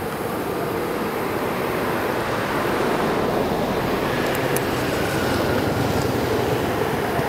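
Electric commuter train approaching on the line, a steady rumble of wheels on rails growing slowly louder. A faint high whine comes in the middle.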